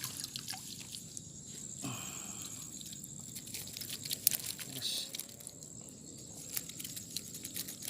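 Steady high-pitched insect chirring, with scattered light clicks and rustles over it.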